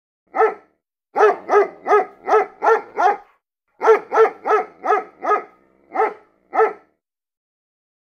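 Dog barking: one bark, then two quick runs of barks at about three a second, ending with two spaced barks.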